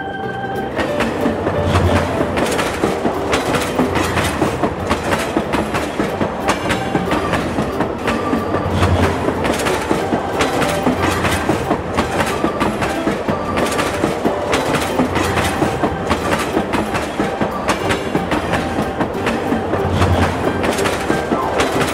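Train rolling along its track: a continuous clatter of wheels over the rails, with a low rumble that swells now and then.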